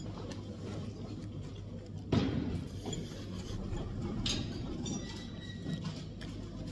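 Close-up chewing of a crisp lettuce-and-herb wrap, with small clicks, over a steady low room hum and faint dish clinks; a louder thump comes about two seconds in.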